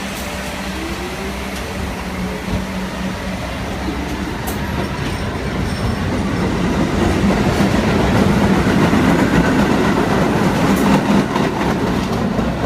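Staten Island Railway R44 train running on General Electric traction propulsion, its motor whine rising in pitch as it picks up speed, with wheels clicking over rail joints. The sound grows steadily louder through the clip.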